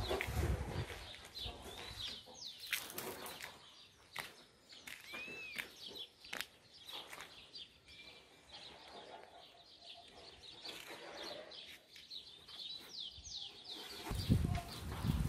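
Small birds chirping, many short rising and falling calls throughout, with low rumbling bumps at the start and again near the end.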